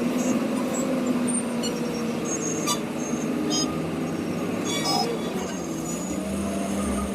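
Truck engine running steadily under way, heard from inside the cab, its note drifting slightly up and down, with a few short sharp rattles about three and five seconds in.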